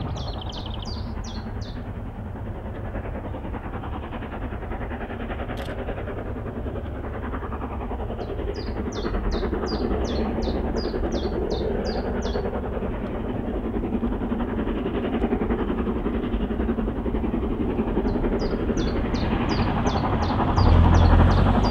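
Distant train approaching: a steady rumble that slowly grows louder, with a sudden heavier low rumble about a second before the end. A small bird sings over it three times, each a run of quick high repeated notes.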